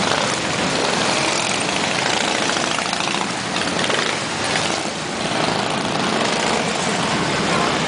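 Many motorcycles riding past in a continuous procession, their engines blending into one steady, loud rumble.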